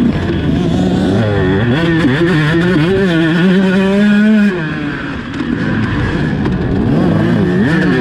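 Motocross dirt bike engine revving up and down under the rider's throttle, its pitch wavering. About halfway through it is held high, then cuts back sharply and briefly drops off, before picking up and revving again near the end.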